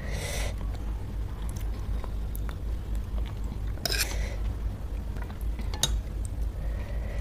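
A person biting and chewing pani puri close to the microphone, the crisp puri shells crunching in short bursts near the start and about four seconds in, with small wet clicks between. A steady low hum runs underneath.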